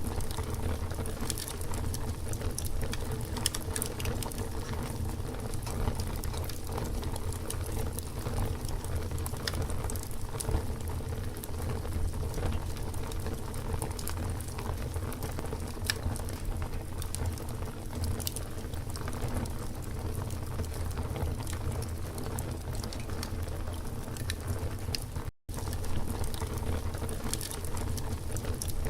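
Campfire burning: a steady low rumble and hiss with frequent small sharp crackles and pops from the wood. About 25 seconds in the sound cuts out for a split second and then resumes.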